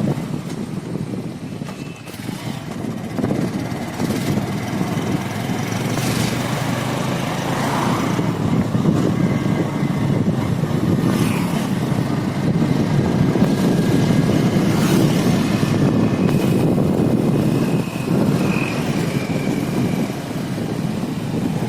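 A motorcycle being ridden at road speed: steady engine and road noise that holds throughout.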